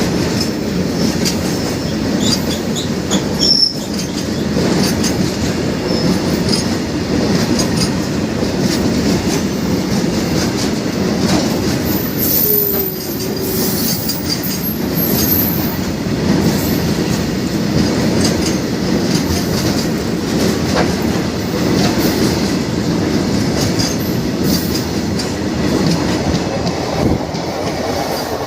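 Loaded freight train of BTPN oil tank wagons rolling past, a steady, loud wheel-on-rail rumble with clicking over the rail joints. Brief high-pitched wheel squeals come in about halfway through.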